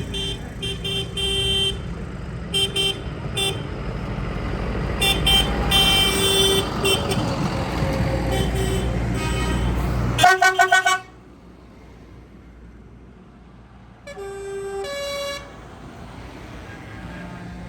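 Tractors passing close with their engines running and their horns tooting again and again. The engine noise falls away about ten seconds in, right after a rapid string of horn blasts. Another horn toot follows, and a second engine comes in near the end.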